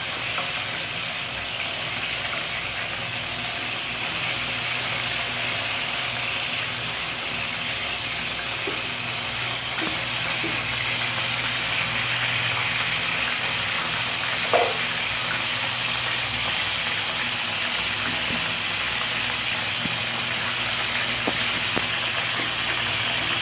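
Batter-coated Bombay duck (loitta) fish pieces sizzling steadily in hot oil in a frying pan, with one brief knock about two thirds of the way through.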